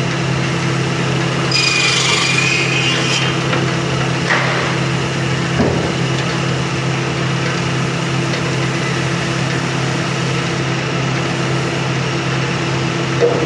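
Sawmill machinery running with a steady hum. About one and a half seconds in, a saw cuts into wood with a high whine lasting a second and a half, followed by a couple of wooden knocks.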